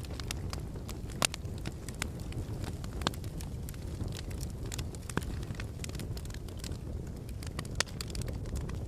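Wood fire crackling in a fireplace: a steady low rumble of flames with irregular snaps and pops, a handful of them sharper and louder.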